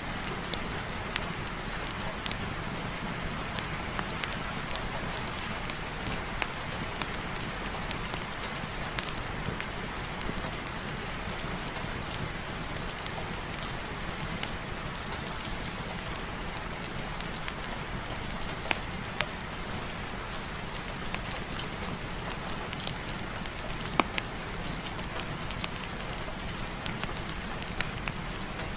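Steady rain falling, an even hiss with scattered sharp ticks and pops throughout.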